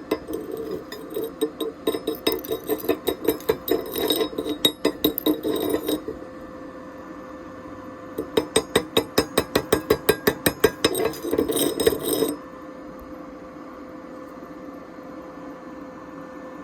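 A hammer strikes metal rapidly, about four or five blows a second, in two runs of several seconds with a pause between them. After the blows stop, a steady electrical hum is left.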